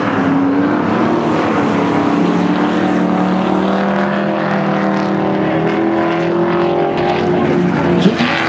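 Several stock race car engines running together, their pitches layered and slowly rising and falling as the cars lap.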